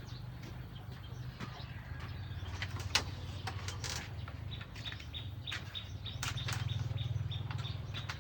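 Outdoor ambience of birds chirping over a steady low hum. A rapid, evenly repeated high chirp, about five a second, runs through the second half, while the hum grows a little louder.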